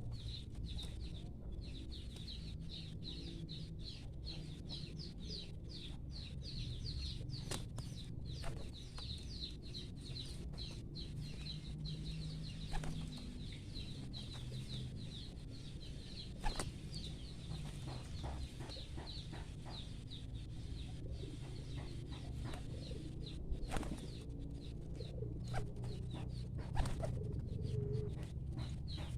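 Pigeons in a loft: a steady low calling underneath, rapid high-pitched chirping that thins out past the middle, and scattered sharp clicks.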